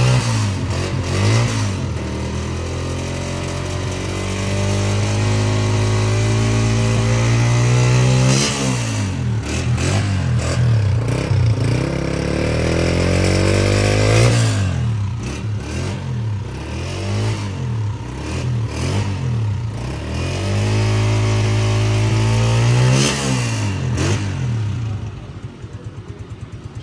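Honda CG 125 motorcycle's single-cylinder four-stroke engine revved repeatedly, rising and falling in pitch and held high at times. It drops back to an even idle near the end.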